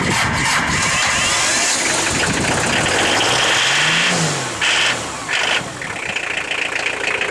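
A diesel engine on a cold start, running loudly. Its revs rise and fall once about four seconds in, followed by two short blips.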